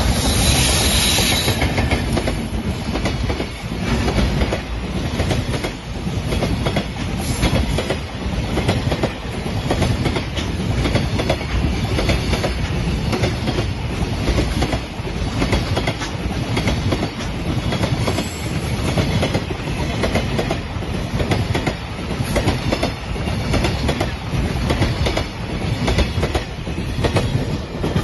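JR Freight EF210 electric locomotive and its long string of container wagons passing close by, the wheels clattering steadily over the rail joints. It is loudest as the locomotive goes by in the first couple of seconds.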